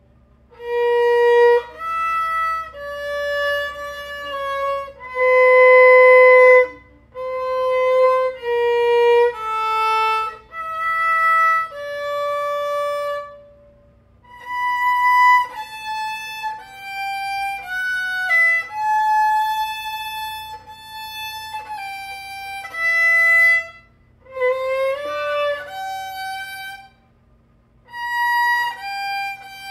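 A 3/4-size violin played solo in practice, one bowed note after another in short phrases with brief pauses between them.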